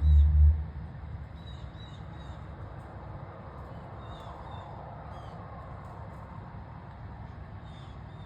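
Birds chirping in short, scattered calls over a steady low rumble, with a loud low thump in the first moment.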